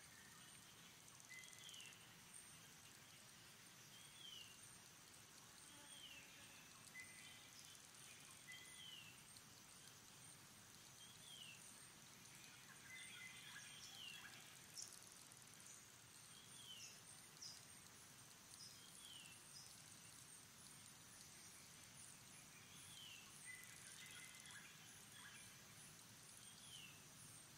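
Faint outdoor ambience: a bird repeating a short, high, falling call about every one and a half to two seconds, over a steady high-pitched insect hum.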